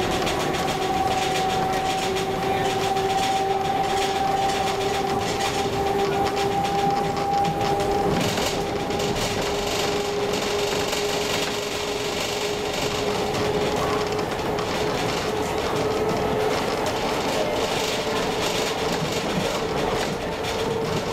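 Heritage train running on Roslagsbanan's narrow-gauge line, heard from aboard: a steady rumble of wheels on rails with a whine that slowly rises in pitch.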